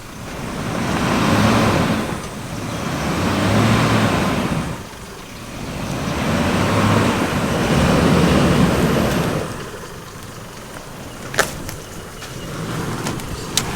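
A four-wheel-drive vehicle's engine revving in about four surges of a couple of seconds each. After that it settles to lower, steady running, with a single sharp click near the end.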